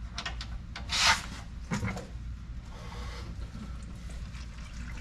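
Parts or tools being handled: a few light clicks, a short rasping scrape about a second in, and a knock just before two seconds, over a low steady hum.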